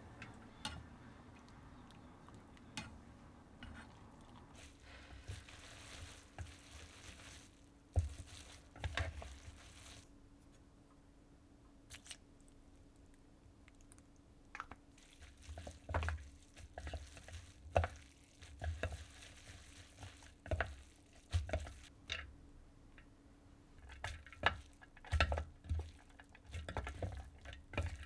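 Home cooking: a utensil repeatedly tapping, scraping and knocking against cookware, with a light sizzle in the first part and the knocks coming thicker in the second half.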